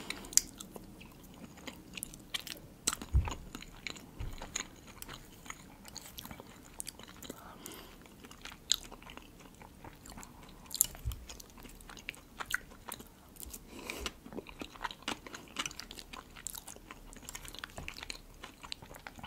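Close-miked chewing and biting of food, with crisp crunches of pickled cucumber and many short, moist mouth clicks. A few soft low thumps come about three, four and eleven seconds in.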